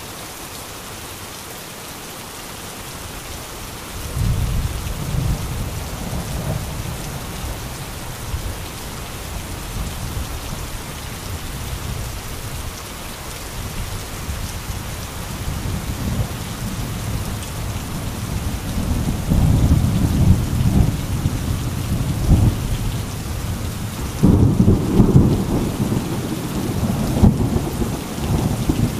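Heavy rain falling steadily, with rolling thunder that rumbles in about four seconds in and grows louder toward the end, peaking in a strong peal near the end.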